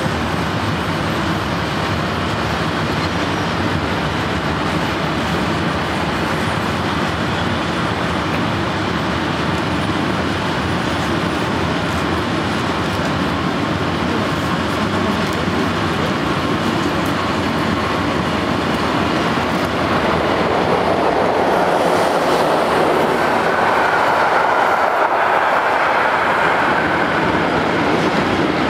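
Electric freight train of covered wagons rolling through a junction station, a steady rumble with the clatter of wheels over rail joints and points. About two-thirds of the way in it grows louder as a passenger train of coaches passes, and a high wheel squeal rises for a few seconds.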